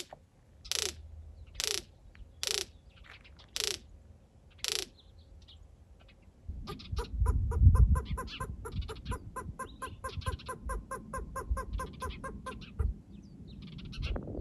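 A bird calling: six harsh, downward-sliding calls about a second apart, then a fast rasping chatter of about five notes a second lasting some six seconds. A low wind rumble sits under the second half.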